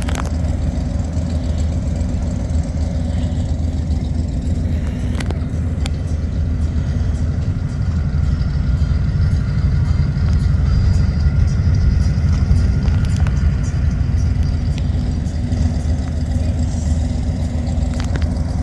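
Vehicle engine idling with a steady low rumble, a couple of faint clicks about five seconds in.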